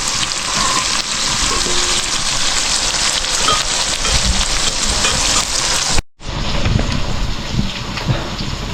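Food sizzling steadily in a hot pan. The sound cuts out abruptly for a moment about six seconds in, then carries on.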